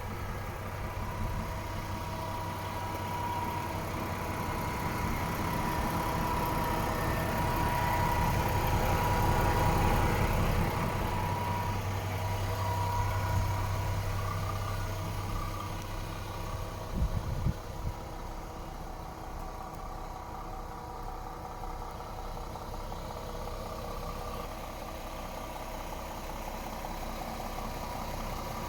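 DAF XF 480 truck's PACCAR MX-13 straight-six diesel idling steadily, growing somewhat louder in the middle. A few short knocks come about seventeen seconds in.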